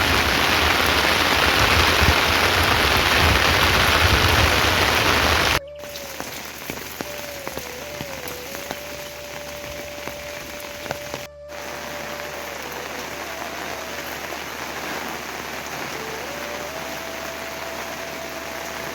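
Heavy rain falling, loud for the first five seconds or so, then cutting abruptly to lighter, quieter rain. Over the lighter rain a thin, steady tone holds for several seconds at a time.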